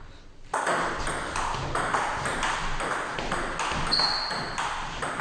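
Table tennis rally: the ball clicks quickly back and forth off the rackets and the table, about four hits a second, starting about half a second in. A brief high squeak comes near four seconds in.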